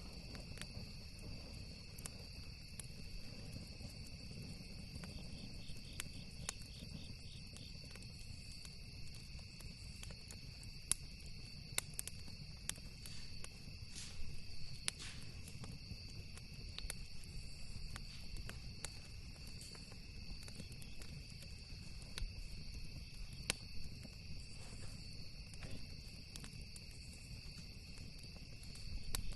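Campfire crackling with scattered sharp pops, over a steady high chorus of crickets and a low rumble.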